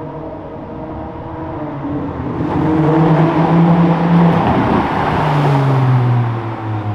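Ferrari Monza SP1's V12 engine as the car drives past: the engine note grows louder, peaks about five seconds in, and drops in pitch as it goes by.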